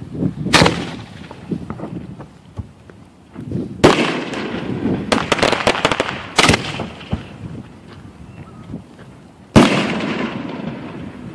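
Aerial fireworks shells fired from steel mortars and bursting overhead: four loud bangs about three seconds apart, each followed by a fading echo, with a spell of rapid crackling pops in the middle.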